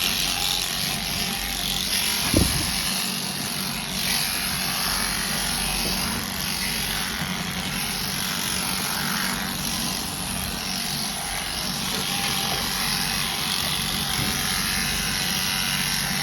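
Electric sheep clippers running with a steady motorised hum as a sheep is clipped. One sharp thump about two and a half seconds in.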